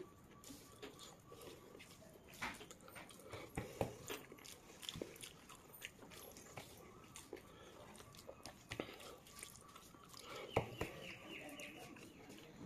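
Close-up eating sounds: chewing mouthfuls of rice and fish curry, with irregular wet smacks and clicks, and a louder cluster about ten seconds in. Fingers squish and mix curried rice on a paper plate between bites.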